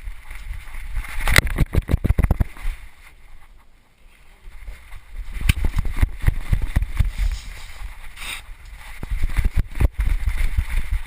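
Knocking, rubbing and low rumbling from a GoPro camera strapped to a moving dog, jostled with each movement. It comes in three loud spells of rapid, uneven knocks.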